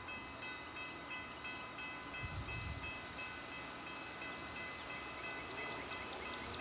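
Freight train approaching, led by two diesel locomotives: a low rumble that swells a couple of seconds in, with thin, steady high tones running over it.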